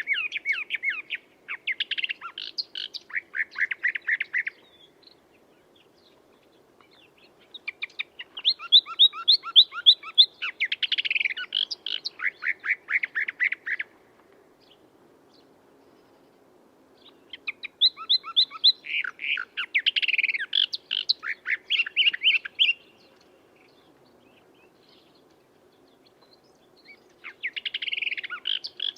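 A songbird singing in four bouts of rapid chirps and trills, each several seconds long and separated by pauses of a few seconds.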